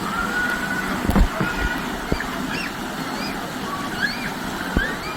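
A steady wash of noise with many short, high rising-and-falling calls scattered through it, and a few dull thumps, the loudest about a second in.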